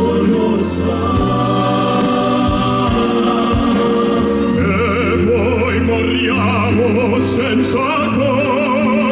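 Male operatic crossover voices singing with wide vibrato over orchestral accompaniment. The voices come in strongly about halfway through, over steadier held instrumental notes.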